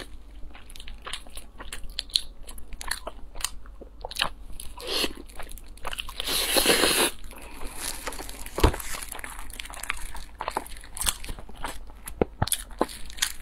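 Close-miked mouth sounds of eating: biting into and chewing a soft food dipped in mayonnaise, with many small wet clicks and smacks. A louder noisy sound lasts about a second around six seconds in, and a sharp knock comes near nine seconds.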